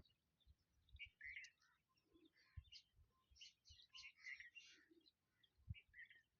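Small birds chirping faintly, with many short chirps scattered throughout and a few soft low thumps.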